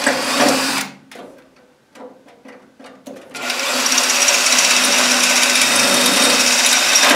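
A handheld power tool working on the rivets of a stainless-steel extractor hood: a short run of about a second, a few clicks, then a steady run of about four seconds with a constant motor tone.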